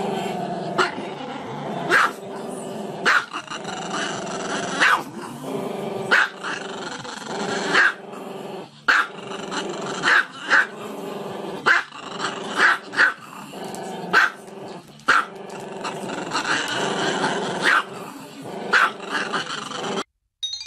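Small long-haired black-and-tan dog growling continuously, breaking into a sharp bark about once a second.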